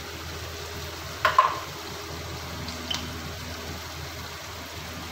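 Chopped vegetables frying in oil in a pan with a steady sizzle while they are stirred with a slotted spatula. A sharp clink rings out about a second in, and a faint tick follows near three seconds.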